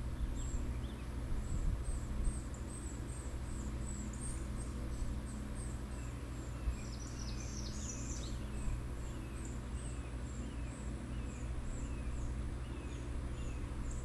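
Small birds calling: a thin, high call note repeated about two to three times a second, with a short flurry of lower chirps about halfway through, over a low wind rumble.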